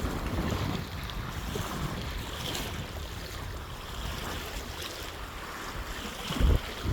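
Surf washing on a beach, with wind rumbling on the microphone; a brief, louder low buffet of wind hits the microphone near the end.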